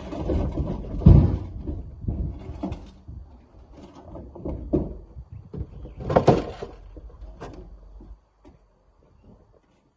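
Rocks thudding and clattering as they are thrown into a dump truck's bed, in an uneven run of knocks over a low rumble. The heaviest thud comes about a second in and another burst near six seconds, and it all stops about eight seconds in.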